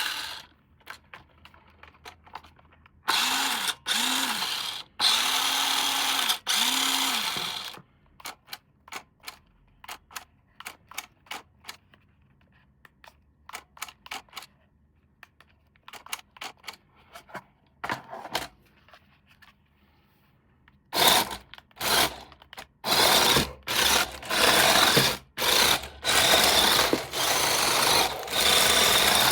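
Small electric motor and plastic gears of a toy RC car whirring in on-off bursts, each speeding up and slowing down. In the middle come scattered plastic clicks, then longer, louder bursts of whirring near the end.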